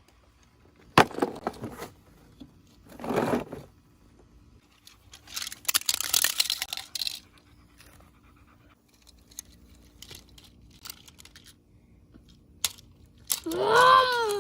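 Scattered handling noises: a sharp click, then scraping and crunching rustles. Near the end comes a child's drawn-out vocal sound that rises and then falls in pitch.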